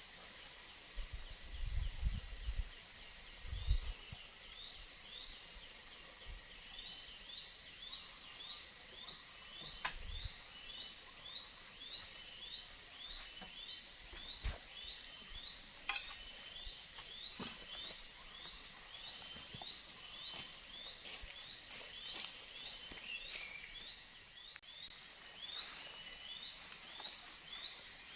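Jungle insects droning at a steady high pitch, with a separate call of short rising chirps repeating about three times every two seconds; the drone cuts off suddenly near the end. A few low thumps in the first few seconds.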